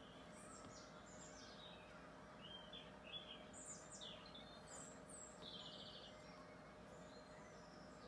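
Faint birdsong: several birds chirping and trilling in short high calls, busiest in the first five seconds, over a faint steady background hum.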